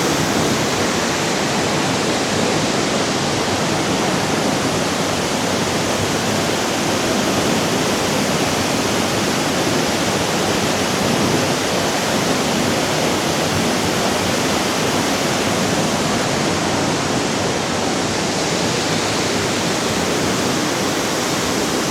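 Waterfall at the Chegem falls: a loud, steady, unbroken rush of falling water.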